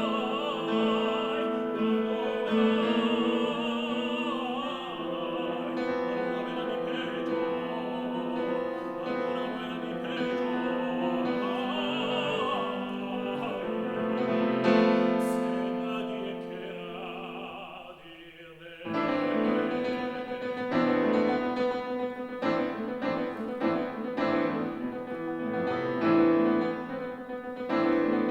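A tenor sings a Spanish art song in operatic style with piano accompaniment, ending on a held note that fades about two-thirds of the way in. The piano then carries on alone with crisp, rhythmic chords.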